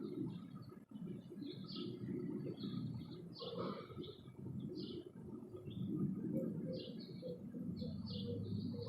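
Small birds chirping in quick, irregular short notes at a feeder, with a steady low rumble underneath.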